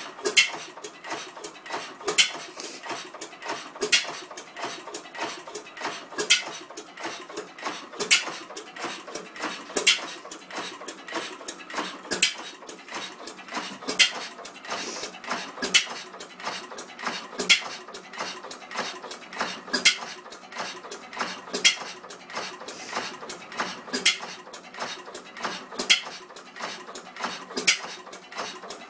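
1910 Gardner 1F open-crank stationary gas engine running, its metal parts clicking steadily, with a louder beat about every two seconds and lighter ticks in between.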